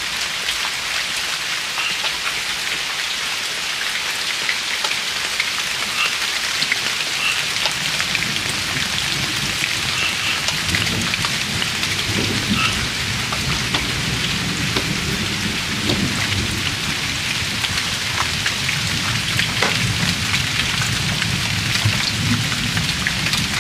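Steady rain falling, an even hiss with scattered drop ticks. About eight seconds in, a low rumble of thunder comes in under it and keeps rolling.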